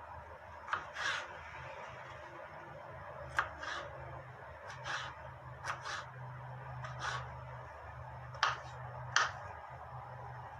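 Kitchen handling sounds: about eight sharp taps, each followed by a brief scrape, coming irregularly every second or two, over a steady low hum.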